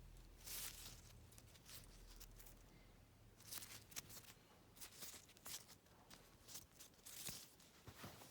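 Faint rustling of a football jersey's polyester fabric being handled, a string of short, soft scrapes and crinkles.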